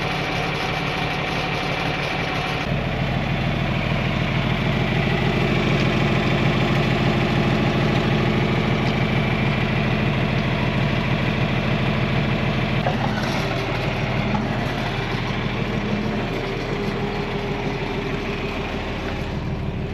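John Deere 4000 tractor engine idling steadily, growing a little fuller in the low end about three seconds in.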